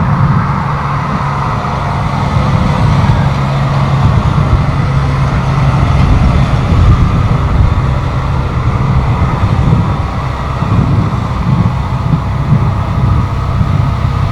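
Jet airliner engines of an arriving KLM airliner, a loud, steady low rumble with a constant hum.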